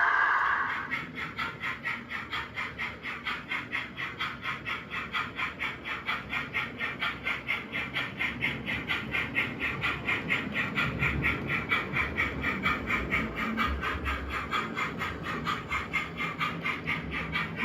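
Model train running on the layout, with a steady rhythmic pulse about four to five times a second over a faint low rumble.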